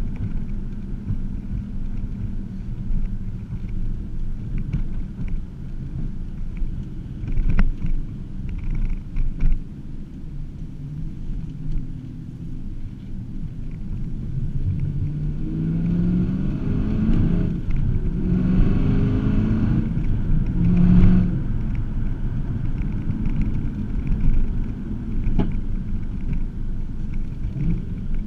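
Supercharged 6.2-litre V8 of a 2009 Cadillac CTS-V, running through catless headers and an X-pipe into the stock mufflers, heard from inside the cabin while driving. It drones low at steady speed, then rises in pitch several times in a row around the middle as the car accelerates, with a few light knocks.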